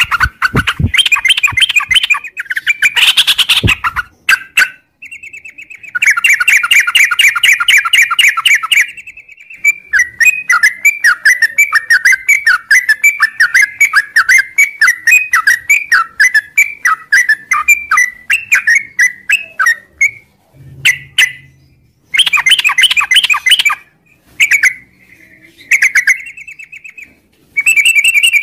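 Yellow-vented bulbul singing a long, rapid chattering song: runs of fast, clear, chirping notes lasting several seconds each, broken by short pauses.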